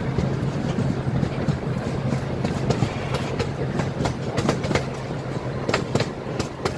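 Miniature park train rolling along its track, with irregular sharp clicks of the wheels over the rail joints above a steady low drone. A few louder clicks come near the end.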